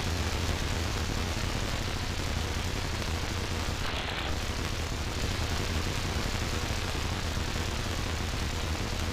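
Steady hiss and hum of a CB radio receiver on an open channel between transmissions, with a brief change in the hiss about four seconds in.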